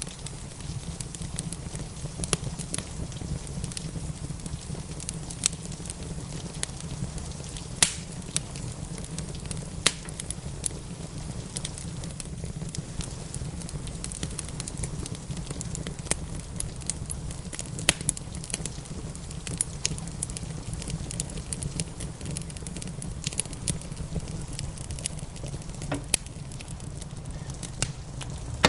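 Wood fire in a fireplace crackling, with frequent small snaps and a loud pop every few seconds, over a steady low rumble and a soft patter of rain.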